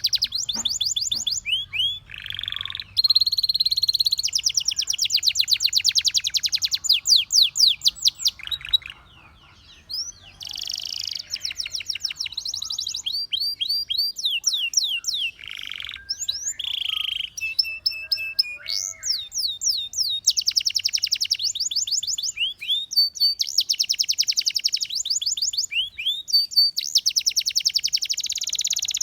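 Domestic canary singing: long runs of fast repeated trills and rolling notes, moving from one phrase to the next, with a short pause about nine seconds in.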